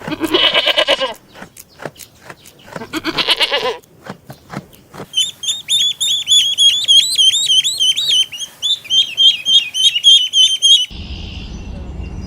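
Two short bleats, most likely a goat's, with scattered clicks between them, followed by about six seconds of rapid, high-pitched chirping notes repeated several times a second; near the end the sound cuts to a low rumbling noise.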